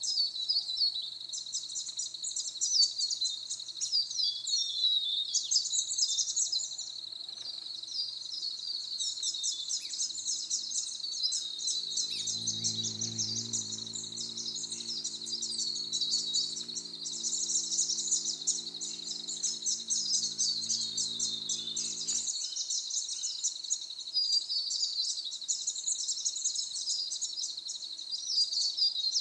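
Many birds chirping and twittering rapidly in a forest chorus over a steady, high insect buzz. In the middle, a low droning hum comes in for about ten seconds and then stops.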